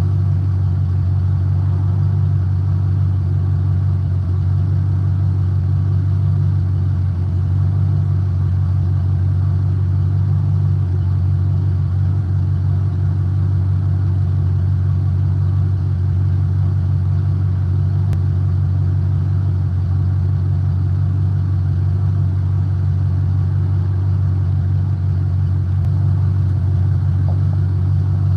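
A truck's engine running with a steady, unbroken low drone, heard from inside the cab.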